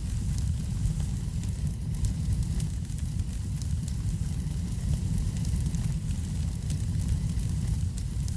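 Wood fire burning in a fireplace: a steady low rumble of flames with scattered small, sharp crackles.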